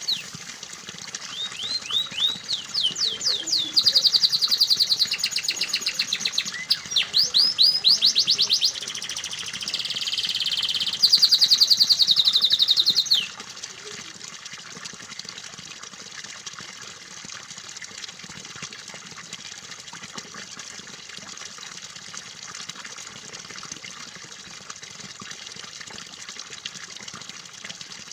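Domestic canary singing rapid, high-pitched trills and rolls over a steady sound of running water; the song stops abruptly about halfway through, leaving only the water.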